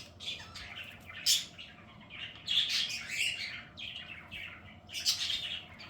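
Birds chirping in irregular bursts of short, high calls, with a few sharper, louder calls about a second in and again near the end.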